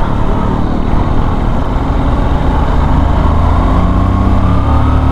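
Honda Shine motorcycle's 125 cc single-cylinder engine running under way on a hill road, with wind and road noise on the rider's microphone; the engine note climbs slightly near the end.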